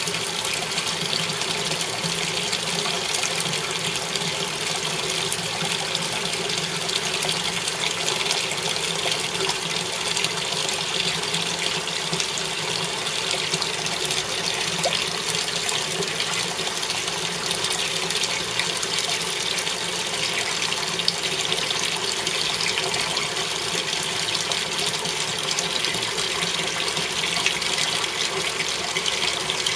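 Water running steadily into a Haier washing machine, a continuous gush with no let-up, during the spin-dry cycle when water should not be flowing in.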